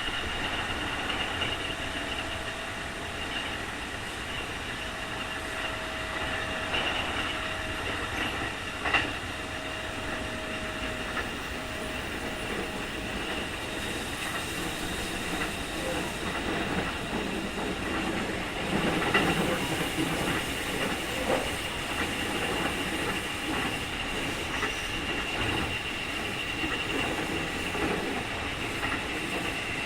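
Keikyu 2000 series electric train with field-chopper control running at speed, heard from inside the car. A steady high whine carries over the wheel and rail noise; it fits the strong "jet sound" this particular car is known for. A few rail-joint clicks come through, the sharpest about nine seconds in.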